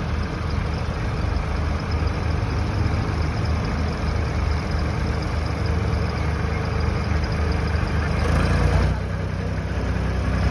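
Tractor engine running with a steady low rumble. It swells louder about eight seconds in, then settles to a deeper, steadier note.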